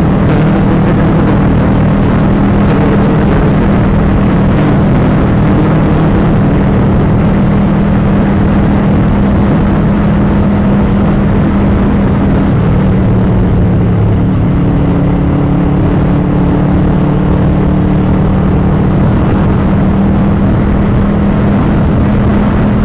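Motorcycle engine running steadily at speed, with a dense rushing noise under it. Its pitch drops slightly about two-thirds of the way through.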